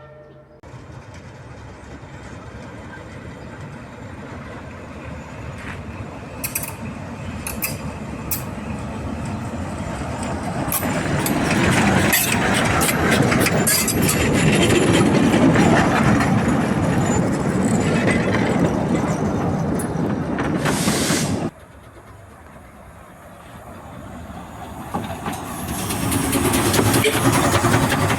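Narrow-gauge train running along the track, its rolling noise building and carrying scattered clicks and clatter from the wheels and carriages. About two-thirds of the way through it drops off suddenly, just after a brief hiss, then swells again.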